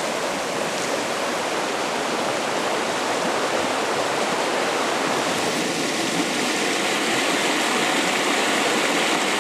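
Small river flowing, a steady, even rush of water that grows a little louder about halfway through.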